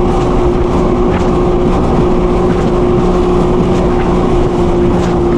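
Personal watercraft engine running steadily at speed, a constant drone with a steady engine note, mixed with the rush of water and wind.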